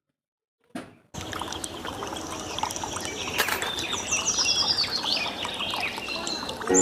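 Water pouring and trickling steadily, with birds chirping high over it several times in the middle. It starts about a second in, after a brief silence.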